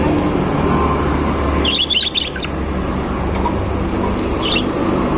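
Budgerigars chirping: a quick burst of high chirps about two seconds in and a single short chirp near the end, over a steady low background rumble.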